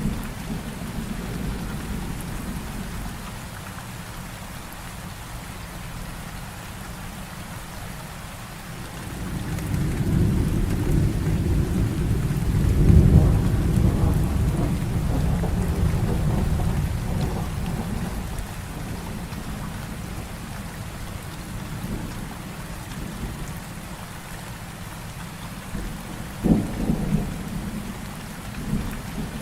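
Heavy rain falling steadily. A long low roll of thunder swells about a third of the way in, is loudest near the middle, then dies away, and a sharper thunder clap comes near the end.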